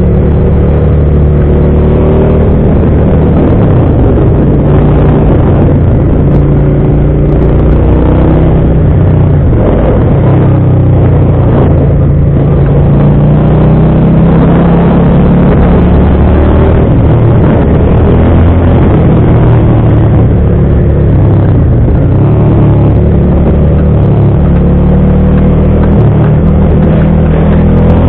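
Motorcycle engine running loud while riding, its pitch rising and falling with the throttle and gear changes.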